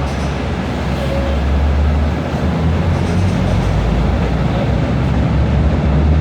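Steady low rumble of a motor vehicle with a continuous hiss over it, slowly growing louder.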